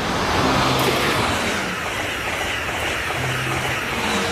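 Steady rushing rumble of a train running, likely an edited-in sound effect; it starts and stops abruptly.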